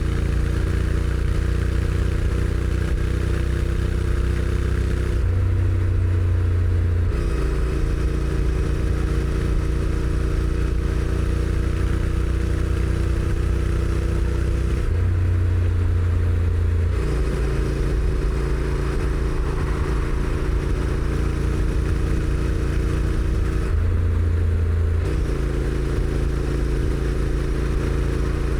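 Honda NC750X DCT's 745 cc parallel-twin engine on its stock exhaust, running steadily under way, with wind rush. The engine note changes briefly three times, about five, fifteen and twenty-four seconds in.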